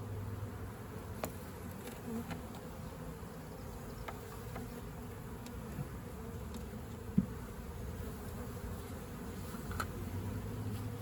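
Honeybees buzzing steadily in a mass around an opened swarm trap and hive, with a few light clicks and one sharp knock about seven seconds in.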